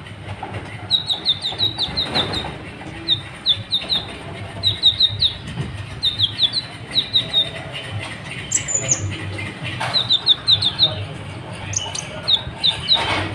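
A sunbird sings a fast twittering song: runs of three to six short, high chirps repeated every second or so, with one higher note midway. A steady low hum runs beneath.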